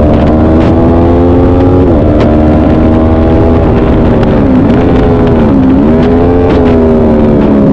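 Motorcycle engine running hard on a racetrack, heard from the bike. Its pitch drifts slowly down, then dips sharply and recovers twice in quick succession around the middle, like gear changes. Heavy wind rumble on the microphone runs underneath.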